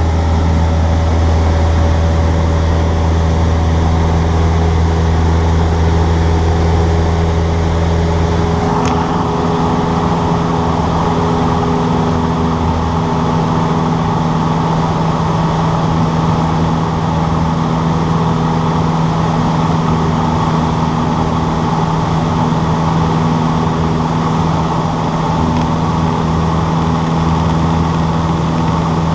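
Cessna 152's four-cylinder Lycoming engine and propeller running with a steady drone; about nine seconds in the deep hum drops away and the tone shifts, then it holds steady again.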